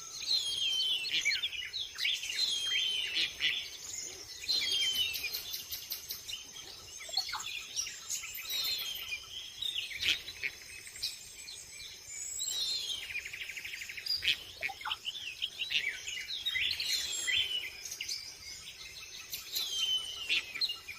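Several birds calling over one another: short, high, falling whistled chirps repeated every second or two, with a fast rattling trill about two thirds of the way through.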